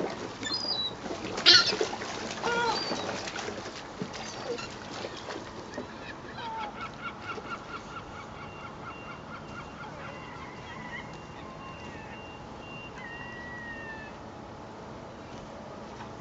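Seagulls calling: several loud cries in the first few seconds, then fainter calls, including a quick run of short repeated notes about six seconds in.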